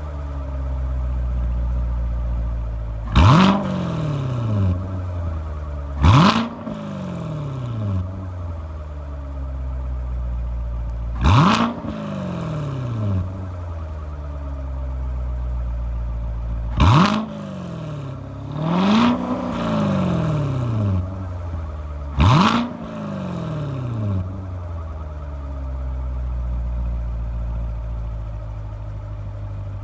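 2017 Corvette Stingray Z51's 6.2-litre LT1 V8 on its stock exhaust in track mode, idling and revved in park six times: five quick blips that climb sharply and fall back to idle over a second or so, and one slower rise and fall about two-thirds of the way through. A park/neutral rev limiter holds the revs to around 3,500–4,000 rpm.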